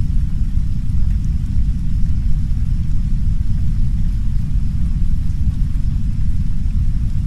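Heavy brown noise: a loud, steady, deep rumble with no pitch or rhythm, unchanging throughout. Soft rain lies faintly on top as a light hiss with occasional small drop ticks.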